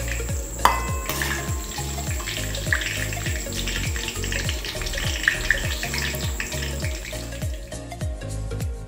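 Hot oil sizzling in a steel kadai as deep-fried onion slices are lifted out with a metal slotted spoon, over background music with a steady beat. A sharp metal clink of the spoon about a second in; the sizzle stops near the end while the music runs on.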